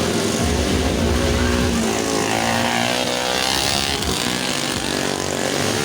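Motocross bikes racing on the dirt track, several engines revving hard and rising and falling in pitch as riders work the throttle through the laps.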